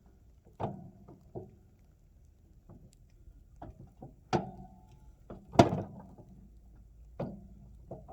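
Irregular knocks and clunks, some with a short metallic ring, as a derailed model locomotive is handled and set back onto the rails. The loudest thud comes a little past halfway.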